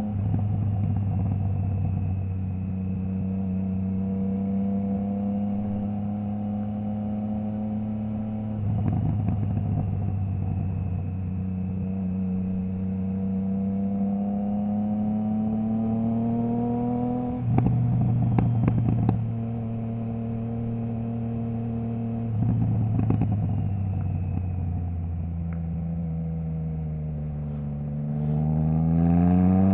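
Triumph Trident 660's three-cylinder engine through a Zard stainless full exhaust with the baffle removed, running at a steady, slowly varying cruise with short spells of rough crackle on and off the throttle. Near the end the revs climb steadily and it gets louder as the bike accelerates.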